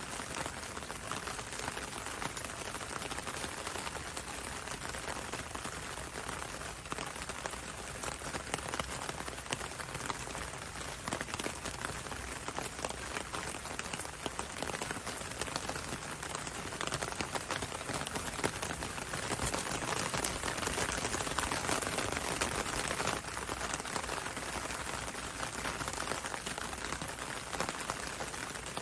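Steady rain pattering on a window and on the road outside, a dense hiss of fine drop ticks, swelling a little louder about two-thirds of the way through.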